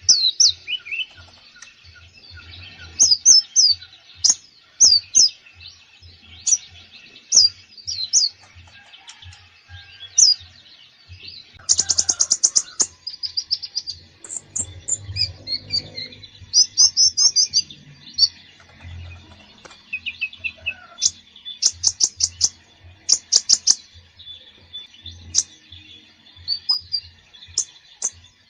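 Olive-backed sunbird (konin) singing in full song: a stream of high, sharp chirps and short whistled phrases broken by rapid trills, rich in mimicked 'isian' phrases.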